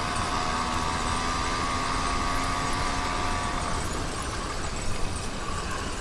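Small two-stroke YD100 motorized-bicycle engine running at a steady high note, over a steady low rumble; the engine note fades out about four seconds in.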